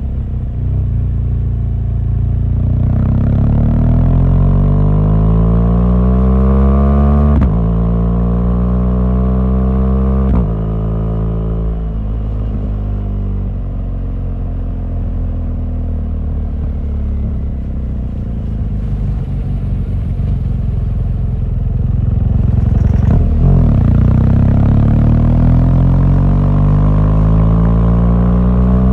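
BMW R1200GS boxer-twin motorcycle engine pulling hard under acceleration, its pitch rising and then dropping sharply on upshifts about seven and ten seconds in. It eases off and runs lower through the middle, then climbs again under acceleration in the last few seconds.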